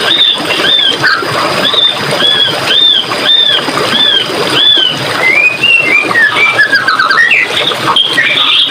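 A songbird repeating a short arched whistle about twice a second, then breaking into a varied run of sliding notes about five seconds in, over the steady rush of flowing water.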